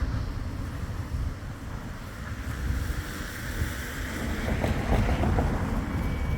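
Wind buffeting the microphone, a heavy low rumble with a hiss over it, swelling about four to five seconds in.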